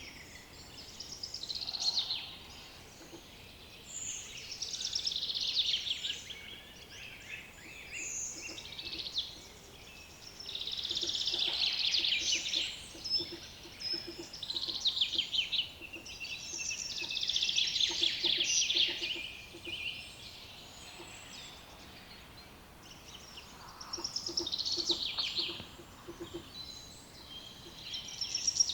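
Songbirds singing outdoors: a run of trilled song phrases, each a second or two long, repeating every few seconds.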